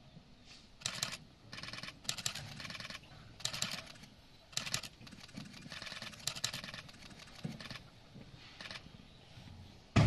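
Giant panda chewing a whole apple: a run of wet, crunchy bites and chews coming in irregular bursts, roughly one every half second to second. A sudden loud thump right at the end.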